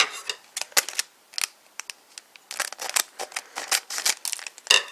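A small foil medal pack being handled and snipped open with scissors: a run of irregular sharp clicks and crinkles, busiest in the second half.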